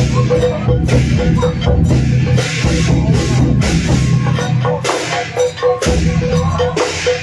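Music with drums and crashing percussion beating a steady rhythm, over a held tone.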